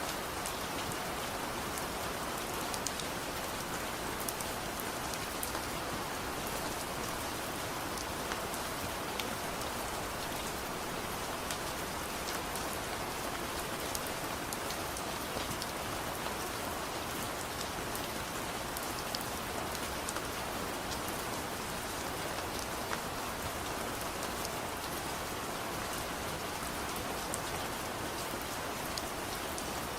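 Soft rain falling steadily, a constant even hiss with scattered faint sharp ticks.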